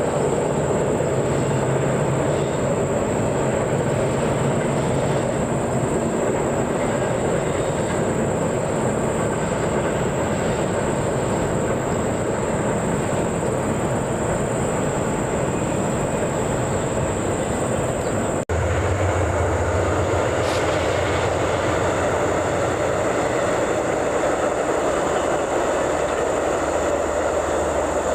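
A train rolling past on the rails: a steady, continuous rumble of cars and wheels, with a momentary dropout about two-thirds of the way through.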